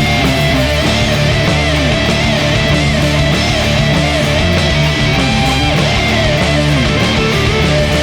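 Stoner rock band recording playing an instrumental passage: electric guitars, bass and drums, with a lead guitar line that slides and bends between notes.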